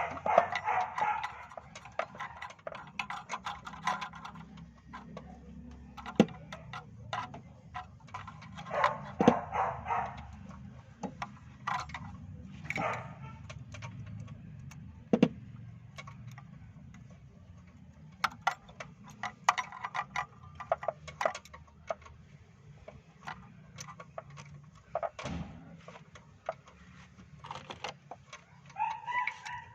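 Hyundai Starex engine idling: a steady low hum with many irregular sharp ticks and clicks over it.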